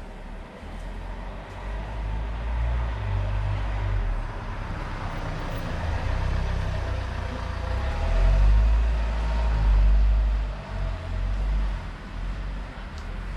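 Road traffic: a motor vehicle passing close by with a deep engine rumble, growing louder to a peak about eight to ten seconds in, then easing off.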